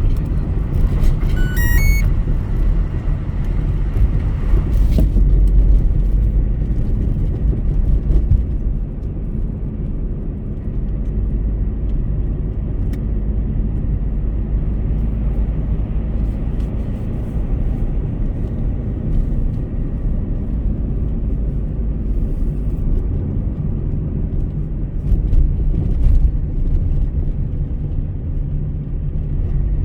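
Car driving at highway speed: steady low rumble of tyres, engine and wind. A few short electronic beeps sound between one and two seconds in.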